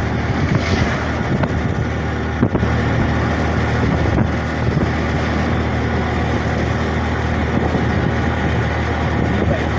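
CNG auto-rickshaw running steadily on the road, its engine hum and road noise heard from on board, with a single knock about two and a half seconds in.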